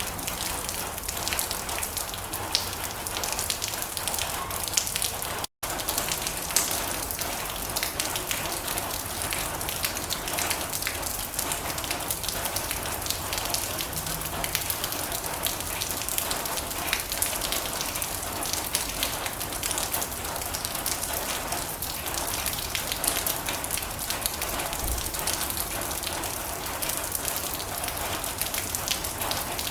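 Heavy rain pattering steadily on a metal roof, a dense hiss full of individual drop ticks. About five and a half seconds in, the sound cuts out for a split second.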